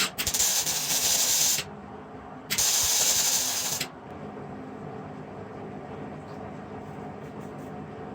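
Water sprayed onto a freshly welded steel sprocket flange, hissing in two long bursts about a second apart, each lasting about a second and a half; the spray is cooling the hot weld quickly.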